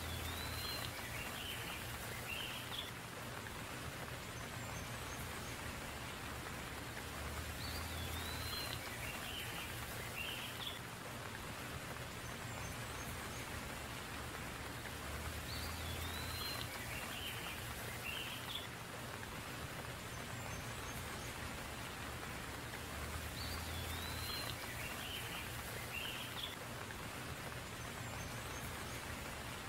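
Steady rain falling and running off a roof's edge, with a short bird call coming back about every eight seconds.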